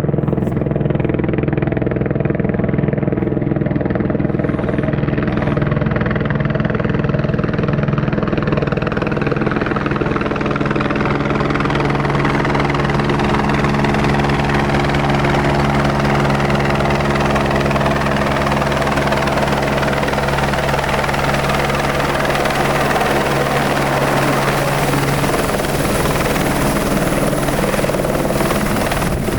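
Helicopter's rotor and turbine running steadily, a constant drone with a rushing hiss that slowly grows stronger.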